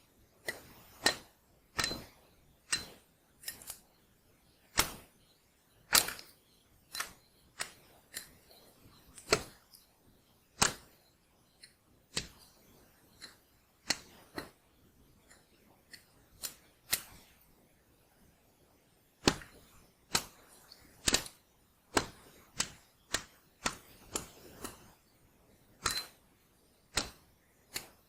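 A series of sharp knocks, irregular but roughly one a second, some with a brief high ring.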